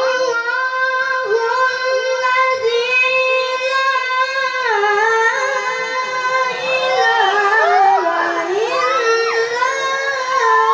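Melodic Quran recitation by a high solo voice: long held notes with ornamented turns and glides, the ornaments growing more elaborate in the second half.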